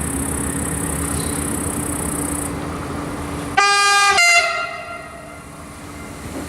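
Train horn sounded in two notes a little past the middle, a short higher note followed straight away by a slightly lower one. Rail running noise of a passing train is heard before and after.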